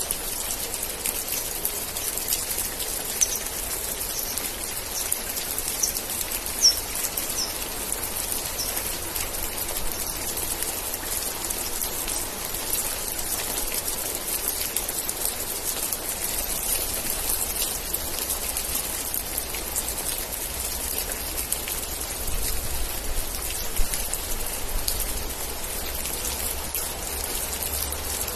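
Steady rain falling, a dense even patter of drops. A few short, high-pitched chirps sound in the first several seconds.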